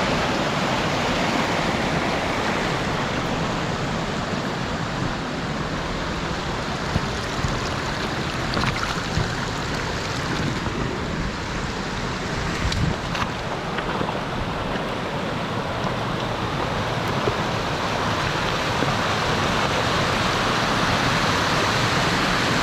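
Steady rush of river water pouring through a rocky gorge and over small waterfalls, with a few faint knocks.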